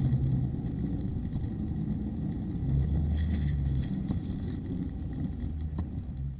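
Car on the road: steady low rumble of engine and road noise, cutting off suddenly near the end.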